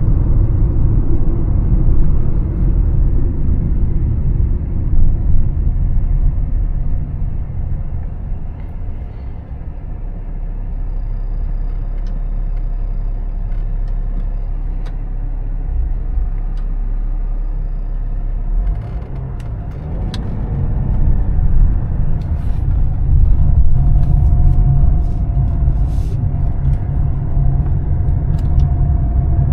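Mercedes-Benz E320 CDI diesel engine and road noise while driving, a steady low rumble. It eases off and goes quieter in the middle, then picks up and gets louder again about two-thirds of the way in, with a steady whine over the rumble.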